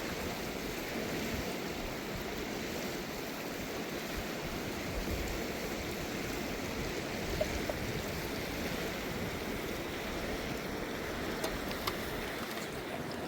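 Steady rush of flowing river water, with a few faint clicks near the end.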